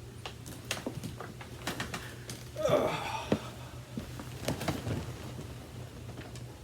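Clicks, knocks and rattles of an unpowered upright vacuum cleaner being handled and checked over, with a short squeak about two and a half seconds in.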